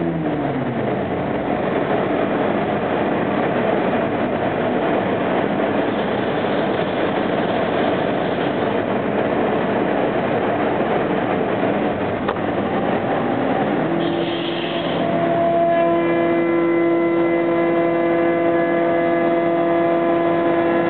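CNC router machining wood. A whine drops in pitch at the start, a dense noisy rush of cutting fills most of the stretch, and about fourteen seconds in the whine rises again and holds steady.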